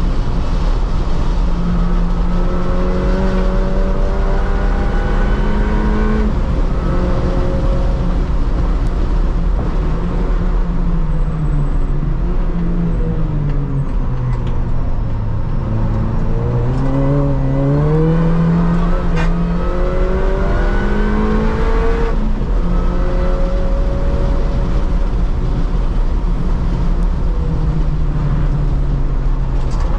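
An R53 Mini Cooper S's supercharged 1.6-litre four-cylinder engine, heard from inside the cabin at full throttle on track. The engine note climbs through the gears with sudden drops at upshifts about 6 and 22 seconds in. Midway it dips and rises in quick swings through downshifts under braking before pulling hard again. A steady low road and wind rumble runs underneath.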